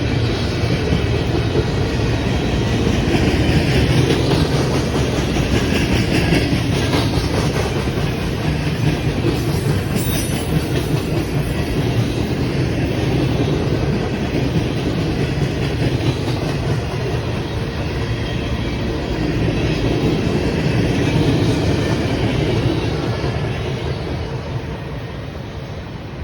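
A passing train's cars rolling by, wheels running on the rails. The sound eases off over the last few seconds as the train moves away.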